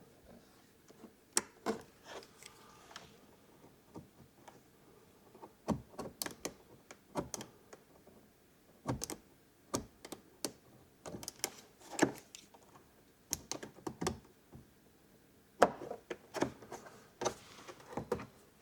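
Irregular light clicks, taps and knocks of hand work with a tool on a small part, spaced unevenly, a few closer together near the middle and end.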